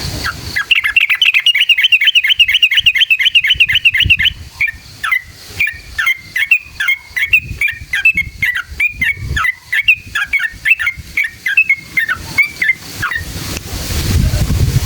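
Yellow-vented bulbul (trucukan) singing: a fast rolling trill of rising-and-falling notes for about three seconds, then a slower run of separate, downward-slurred chirps about two or three a second. The song stops about two seconds before the end, where a low rushing noise rises.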